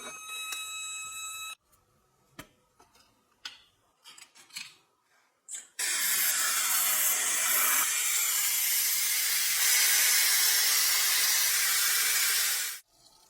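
A short chime-like tone at the start, then a few light clicks and taps, then a loud steady hiss like a spray or air jet lasting about seven seconds, cutting off abruptly.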